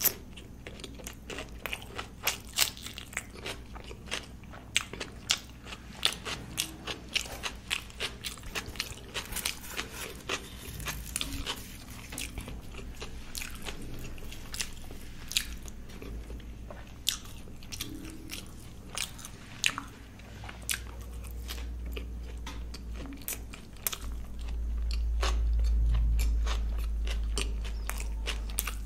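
Close-up chewing of luchi and paneer curry: wet mouth sounds with many quick clicks and smacks. A deep rumble swells in the last several seconds.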